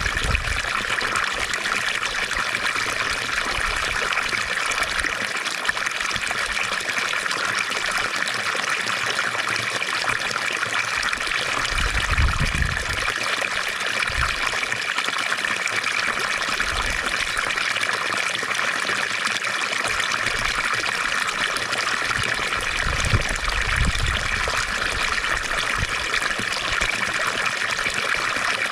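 Water from a fountain trickling and splashing steadily, with a couple of brief deeper surges.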